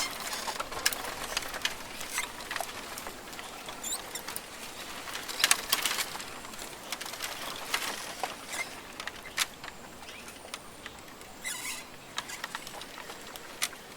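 Rainforest ambience: irregular clicks, crackles and rustling patter, with a thin high tone that sounds briefly near the middle.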